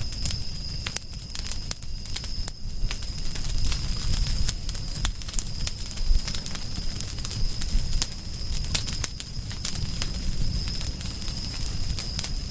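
Campfire crackling: frequent sharp pops and snaps of burning wood over a low steady rumble.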